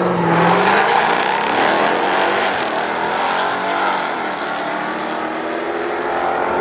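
A drag-racing car's engine at full throttle as it launches and pulls away down the strip, a loud dense engine sound with several pitches at once, easing slightly after about four seconds.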